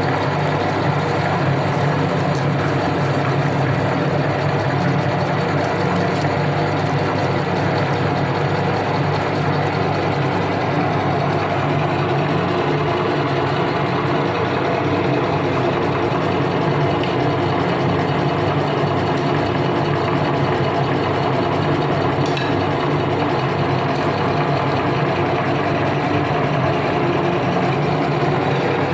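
Electric meat grinder motor running steadily with a continuous hum.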